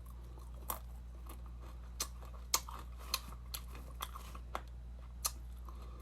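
Close-up chewing of crunchy fried dried anchovies (dilis): sharp, irregular crunches, roughly one or two a second, over a steady low hum.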